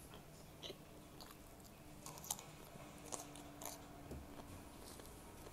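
Faint chewing of food, with a few short crunchy clicks scattered through it, the sharpest about two seconds in.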